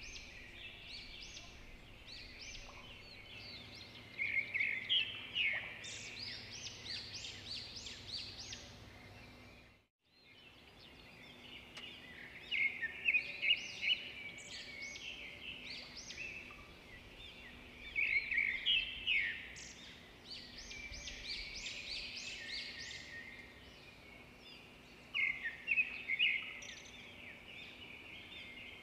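Small birds chirping, with bouts of many quick high notes coming every few seconds over a steady background hum. The sound cuts out briefly about ten seconds in.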